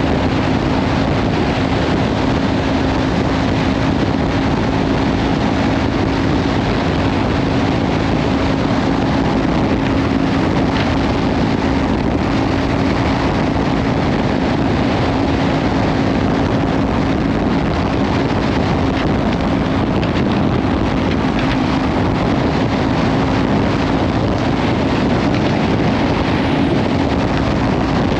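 Kawasaki Ninja 500 parallel-twin with a Leovince slip-on exhaust running at a steady cruising speed, its engine note holding one pitch, under heavy wind noise on the microphone.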